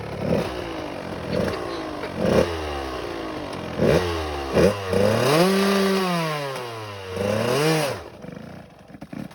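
Kawasaki 85 two-stroke dirt bike engine revving in a string of short blips, then a longer rev that rises and falls as the rider works the bike on a steep hill climb after missing a turn; the engine cuts out about eight seconds in.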